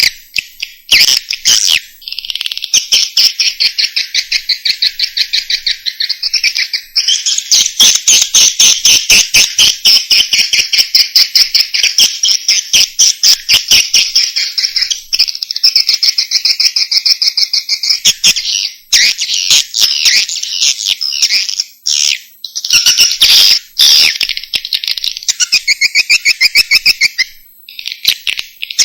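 Swiftlet calls played as a lure recording to draw swiftlets to a nesting house: fast runs of high chirping pulses, each run lasting several seconds, with short breaks between them.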